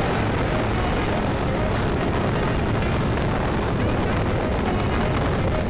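Wind buffeting the microphone along with engine and road noise from a Yamaha Tricity 155 three-wheeled scooter under way.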